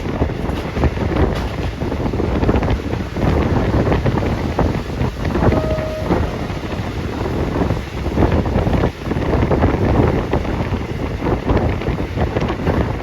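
Heavy wind buffeting the phone's microphone, a loud rumbling rush that never lets up. About halfway through there is a brief single beep of about half a second.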